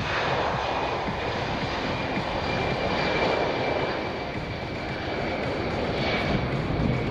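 Boeing C-17 Globemaster III's four Pratt & Whitney F117 turbofan engines at takeoff power, a steady jet roar with a thin high whine, as the airlifter takes off and climbs.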